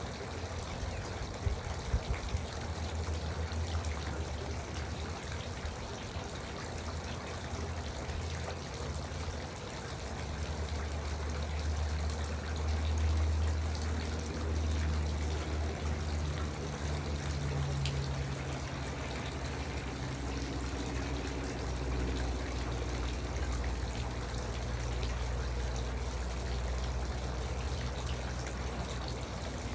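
Garden water fountain trickling and splashing steadily, with a low rumble underneath.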